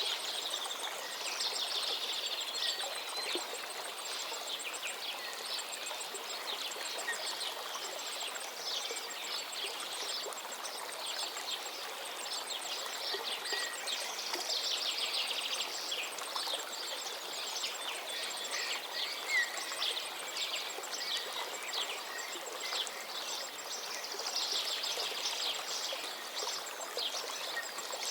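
A river flowing in a steady rush, with many birds chirping and singing over it throughout, and a fast, very high ticking at times.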